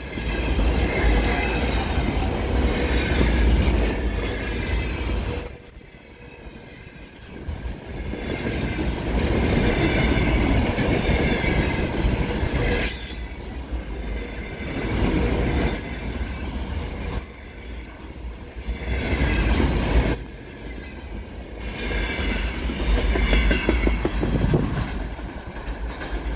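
Container freight train passing close by, its wheels running on the rails with a dense rumble and clatter. The sound drops away sharply for about a second three times and then swells back.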